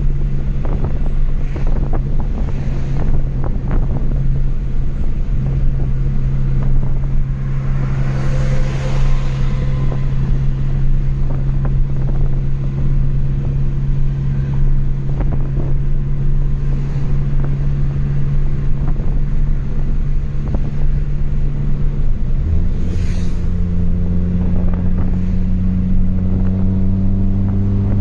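Chevrolet Astra 2.0 four-cylinder engine through a straight-piped exhaust, running at steady cruising revs with road and wind noise. About three-quarters of the way through, the exhaust note changes and then climbs gently as the car pulls.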